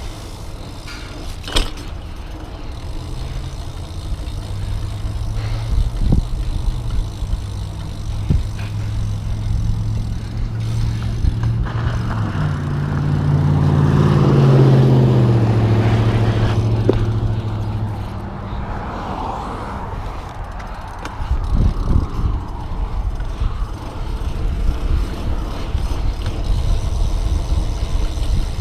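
Road traffic with a steady low rumble. A motor vehicle's engine grows louder to a peak about halfway through, its pitch rising and then falling as it passes, and fades away by about two-thirds of the way in.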